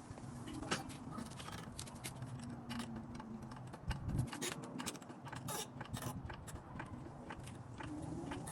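Irregular clicks, knocks and scraping of metal tools and parts being handled during a tire change, over a faint steady hum.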